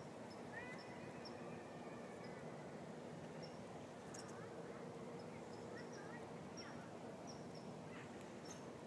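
Quiet open-air hush with small birds chirping: short high chirps scattered throughout, over a faint steady background.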